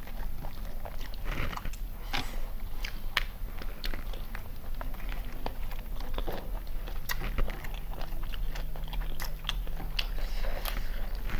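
Close-up eating sounds of country chicken biryani: irregular bites and wet chewing with small crunches, over a steady low hum.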